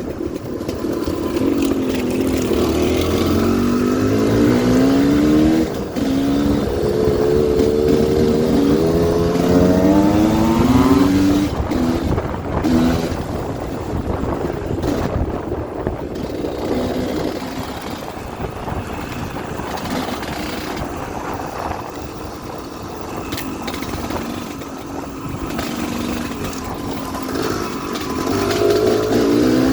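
Motocross dirt bike engines revving hard as the bikes accelerate, the pitch climbing through the gears and dropping back briefly at each shift. A loud run of climbs in the first ten seconds gives way to quieter engine noise, then another climb comes near the end.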